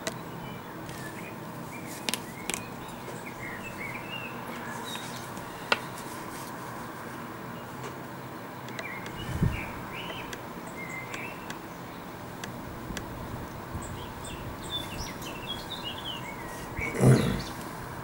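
Small birds chirping in short, scattered calls over a steady background hiss, with a few sharp clicks and a louder low thump near the end.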